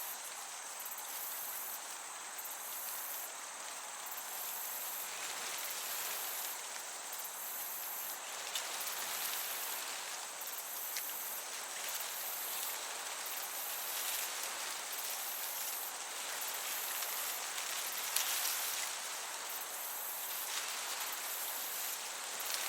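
Crickets chirping in a high, pulsing rhythm, the trills switching on and off about once a second, over the even hiss of a breeze through meadow grass.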